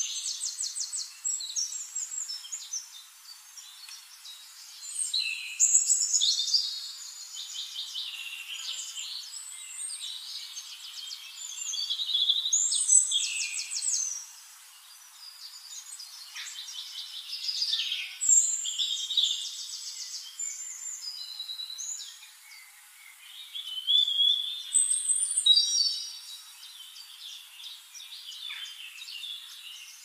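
Birds chirping, with many high-pitched calls and rapid trills overlapping, swelling into louder spells every few seconds.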